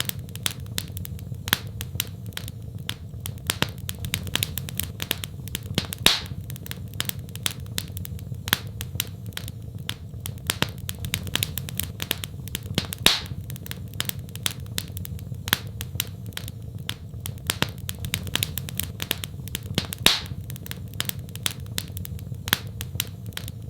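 Wood fire in a fireplace crackling: a dense run of small clicks with a sharper, louder pop about every seven seconds, over a steady low rumble.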